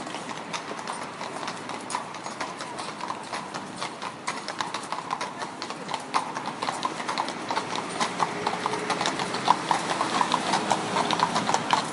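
Horse hooves clip-clopping, a quick, continuous run of knocks that grows louder over the last few seconds.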